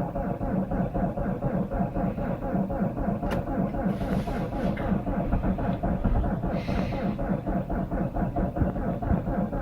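Chevrolet Cruze diesel engine being cranked by its starter in deep cold without catching yet: a steady, rapid pulsing. Brief hissing comes twice, about four and seven seconds in.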